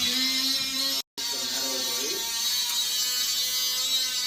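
A small electric motor whining at a fairly steady pitch, cut off abruptly for an instant about a second in, then running on.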